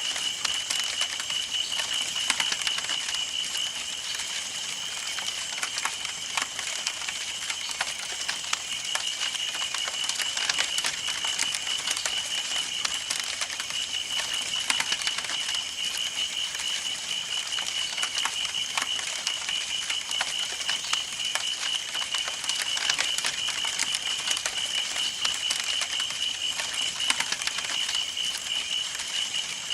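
Campfire burning: wood crackling and popping in irregular sharp clicks over a soft hiss, with a steady, high pulsing chirr underneath.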